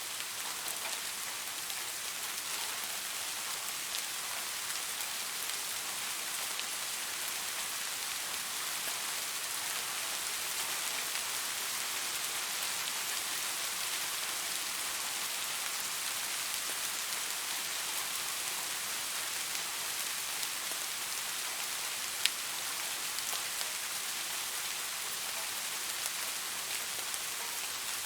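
Steady light rain, an even hiss of many fine drops pattering on a surface. One sharp drop or tap stands out about three-quarters of the way through.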